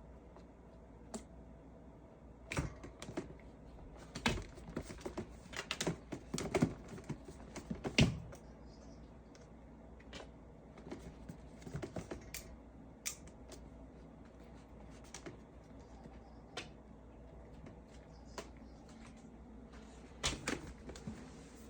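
A calico cat's claws clicking and scrabbling as she spins round chasing her own tail: irregular sharp taps, busiest in the first third and again near the end, with sparse single clicks between.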